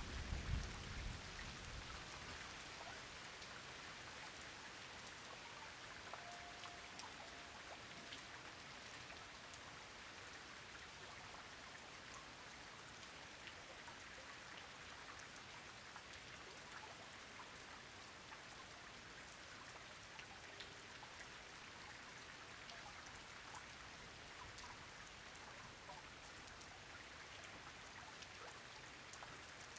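Steady rain falling, with many separate drops ticking sharply. The tail of a low thunder rumble dies away in the first second or so.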